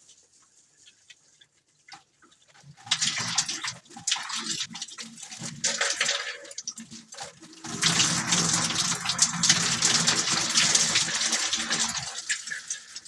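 Water spraying from a garden hose, starting about three seconds in and getting louder and fuller from about eight seconds in, then stopping shortly before the end.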